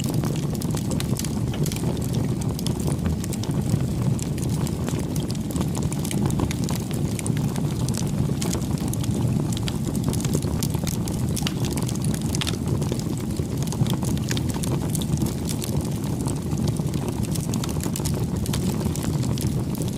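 Bonfire burning: a steady low rush of flame with frequent small crackles and pops.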